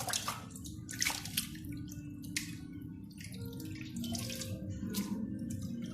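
Water splashing and sloshing in a bowl in short, irregular bursts as mussels are rinsed in clean water to wash out grit and sand.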